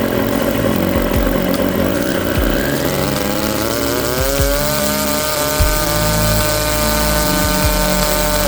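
Single-rotor 20cc Wankel engine with electronic fuel injection running a propeller on a static thrust test. It runs at a steady speed, then from about three seconds in revs up with a rising whine and holds at high speed.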